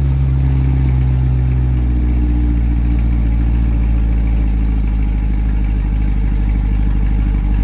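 2020 Chevrolet Corvette C8 Stingray's 6.2-litre LT2 V8 with the factory performance exhaust, idling steadily after a cold start. The idle eases down a little about two seconds in.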